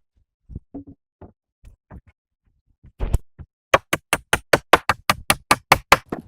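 A few scattered light knocks, a heavier thump about three seconds in, then a fast, even run of sharp knocks, about six a second, like quick tool strikes in construction work.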